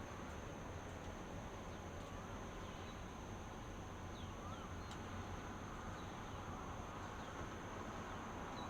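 Outdoor dawn ambience: a steady, high-pitched insect chorus over an even hiss, with a few faint, short bird chirps scattered through.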